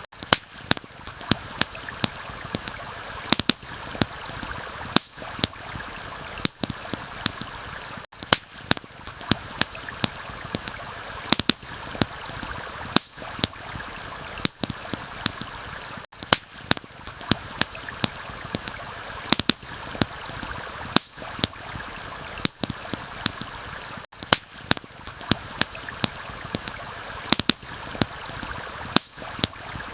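Steady rush of flowing stream water with frequent irregular sharp crackles and pops from a wood campfire. The whole bed dips briefly about every eight seconds.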